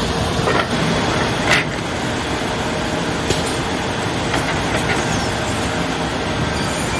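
Finger joint shaper running, a loud, steady mechanical noise broken by a few sharp knocks, the loudest about a second and a half in.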